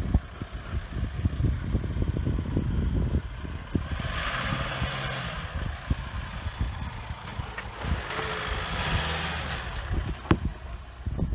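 A car or truck engine running at low revs, with two stretches of hiss about four and eight seconds in.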